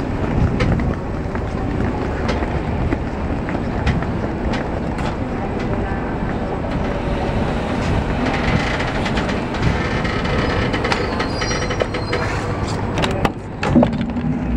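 Steady rumble of a railway train alongside. Near the end there are a few sharp clicks as a coach door's handle is gripped and pulled.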